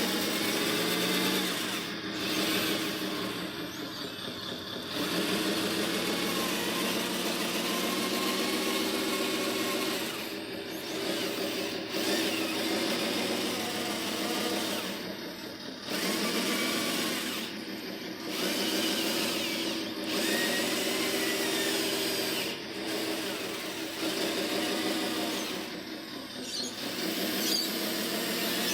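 Small electric motors and gearboxes of RC construction models whining in bursts. They start and stop every few seconds, the pitch sliding up or down as the motors speed up and slow.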